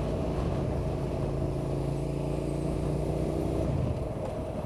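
Suzuki SV650's V-twin engine running with a steady note, which drops away near the end.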